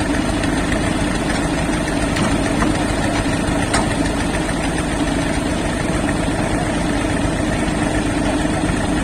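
Old diesel tractor engine running steadily while it drives a brick-making machine, with a single short click a little under four seconds in.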